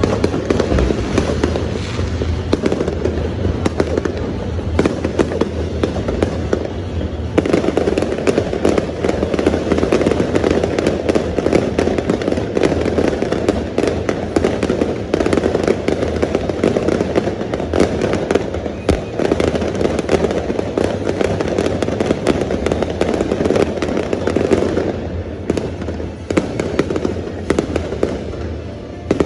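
Fireworks going off in a dense barrage of many bangs and crackles, with music playing underneath. The barrage thins out about 25 seconds in.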